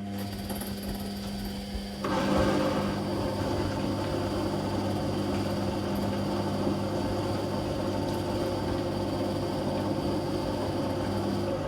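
Whirlpool Indiana 1400 washing machine starting its programme: a steady hum, joined about two seconds in by a louder, steady rushing sound.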